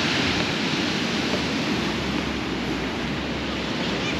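Sea surf breaking and washing on the shore: a steady rush of noise, fullest near the start.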